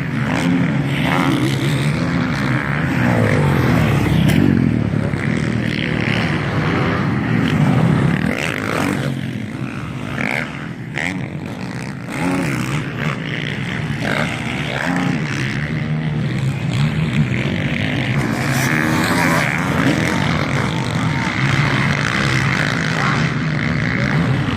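MX1-class motocross bikes racing, their engines revving up and falling back again and again as riders work the throttle around the track, loudest in waves as bikes come past.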